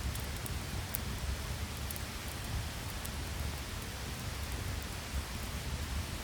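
Steady heavy rain, with a low rumble underneath and faint scattered ticks on top.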